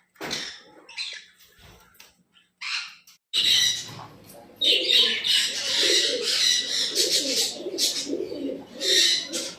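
Many caged birds calling at once: dense high chirping and squawking over lower cooing. A few short, separate calls come first, then from about three seconds in a continuous loud chorus.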